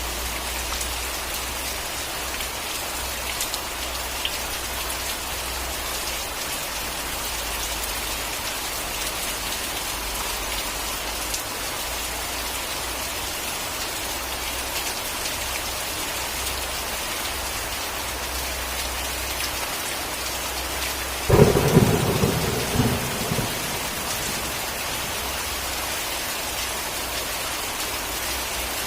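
Steady heavy rain falling on a surface, with one sharp thunderclap about two-thirds of the way through that cracks loudly and rumbles away over a couple of seconds.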